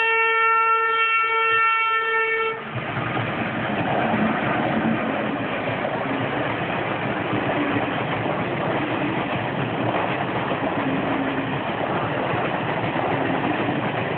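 Indian Railways train sounding its horn in one steady blast that cuts off after about two and a half seconds, then the train passing through the crossing with a continuous clatter of wheels on the rails.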